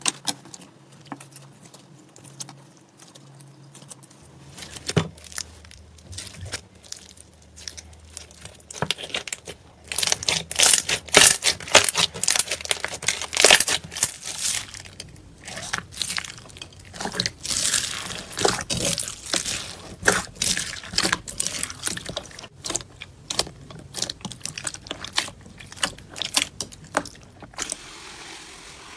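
Slime being squished and pressed by hand, making irregular sticky clicks and crackles. They are thickest about ten to fourteen seconds in and again around eighteen to twenty-two seconds, and turn to a softer hiss near the end.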